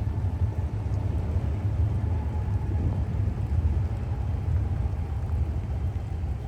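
A steady low rumble with a faint, slowly falling tone above it.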